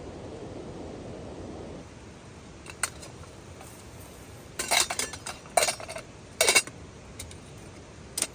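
Metal camp cookware and utensils clinking and knocking against each other: a handful of sharp knocks, a few of them close together in the middle, some ringing briefly.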